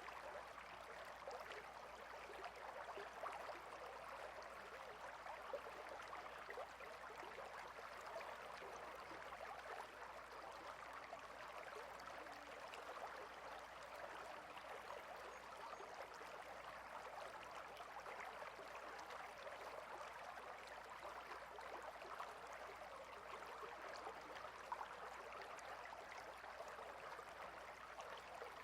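A stream's water flowing and babbling steadily.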